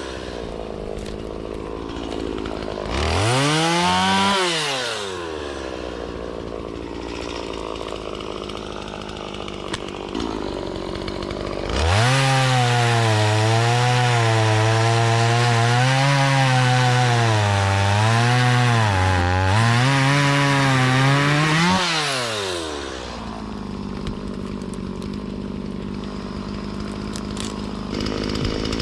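Stihl two-stroke chainsaw idling, blipped up and back down about three seconds in, then held at full throttle for about ten seconds while cutting willow wood, its pitch dipping and recovering under load, before dropping back to idle.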